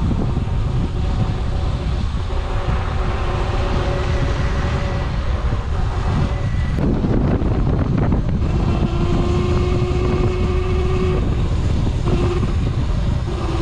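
Wind buffeting the microphone while riding an electric dirt bike, with the motor's steady whine over it, its pitch shifting a few times with speed.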